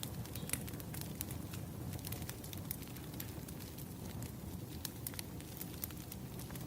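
Firewood burning: a steady low rumble of the fire with frequent, irregular sharp crackles and pops.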